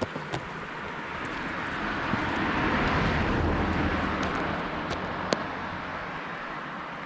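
A road vehicle passing by, its noise swelling to a peak about three seconds in and then fading away, with a few light clicks.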